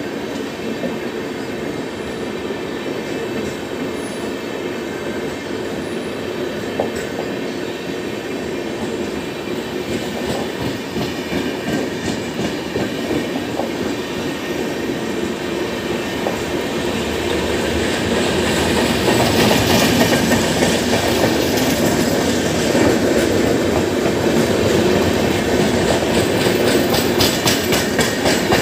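LHB passenger coaches of an express train rolling past at speed: a steady rumble of wheels on rail with clicks over rail joints. It grows louder about two-thirds of the way through as a high wheel squeal joins in.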